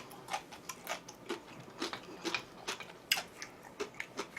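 A person eating close to the microphone: irregular wet mouth clicks and smacks of chewing, about two or three a second.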